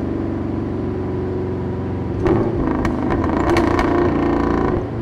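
Straight-piped 5.4-litre Boss 260 V8 of a 2005 Ford BA XR8 ute, heard from a microphone at the exhaust. It runs steadily at light throttle, then a little over two seconds in the note changes with the throttle and a run of sharp pops comes through the exhaust.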